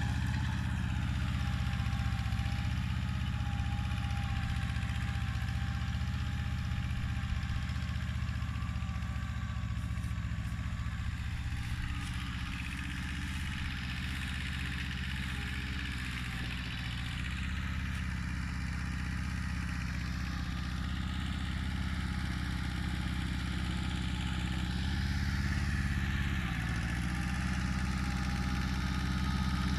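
Kubota mini tractor's diesel engine running steadily, the loudness easing slightly midway and coming back up.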